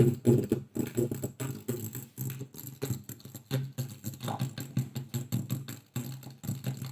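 Music played through a home-theatre amplifier board built on a TDA7294 amplifier IC, coming out cracked and distorted. This is the fault being shown: the IC is good, yet the sound still breaks up.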